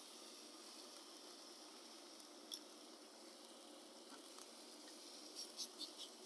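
Steaks sizzling in a pan: a faint, steady hiss with a few sharp pops, one about two and a half seconds in and a small cluster near the end.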